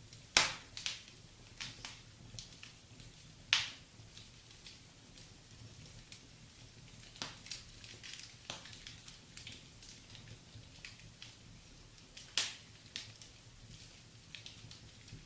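Wood fire crackling in a fireplace: a faint steady hiss with irregular small crackles and a few sharp, louder pops.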